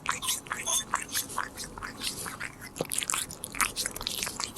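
Korean shorthair cat chewing a treat close to the microphone: quick, irregular clicks and smacks of its teeth and mouth, several a second.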